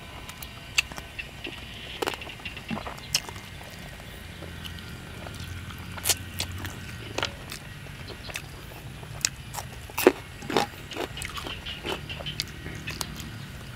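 Close-up mouth sounds of a man eating crispy-skinned roast field rat: wet chewing, lip smacks and finger licking, with scattered sharp crunches every second or so, over a low steady hum.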